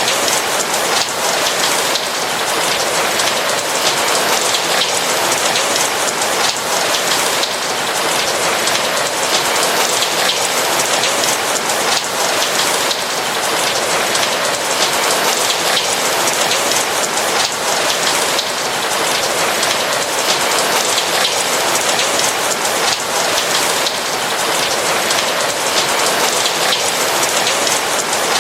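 Steady rain falling, a dense even patter of raindrops on a roof.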